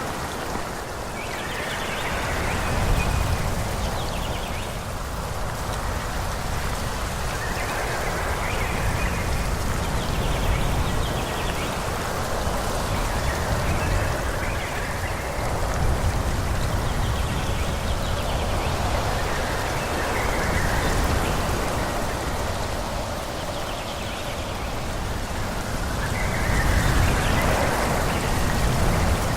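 Wind blowing through forest trees: a continuous rushing of leaves with a low rumble that swells and eases in gusts.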